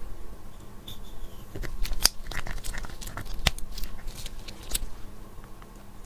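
Close-up handling of cosmetics and their packaging: a few sharp clicks and taps among softer scraping and crinkling.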